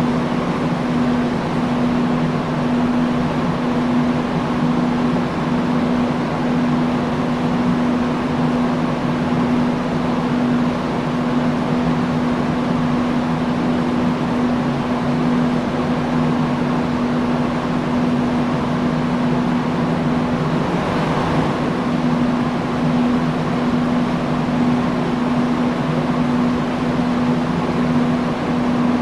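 Industrial fan running steadily: an even rush of air over a constant low motor hum.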